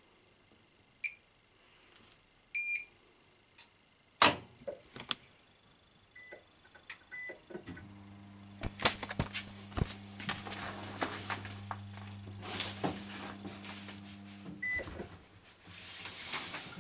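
Bosch WAN28220FF washing machine starting a synthetics 40 cycle: a few short control-panel beeps, a loud click about four seconds in, then a steady hum with water rushing in as the machine begins to fill.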